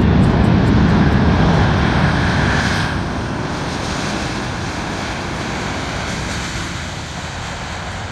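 Jet noise from the Antonov An-124's four turbofan engines: a steady rush, heaviest in the first three seconds, then easing to a lower, even level.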